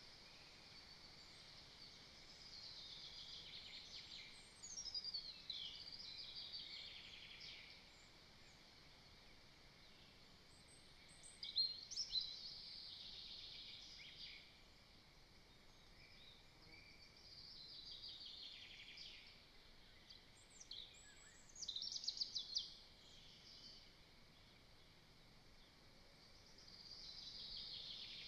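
Faint songbird song: about five short phrases spaced several seconds apart, several of them fast trills that drop in pitch, over a steady faint hiss.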